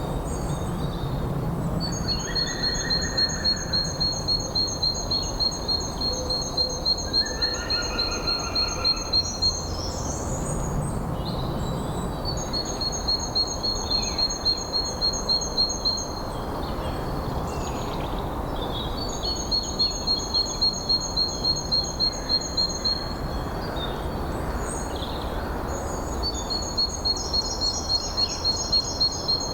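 Birdsong outdoors: a long, evenly pulsed high trill that repeats four times, each run lasting about seven seconds with short pauses between, and a few shorter, lower calls from other birds early on and in the middle. Underneath is a steady low rush of wind.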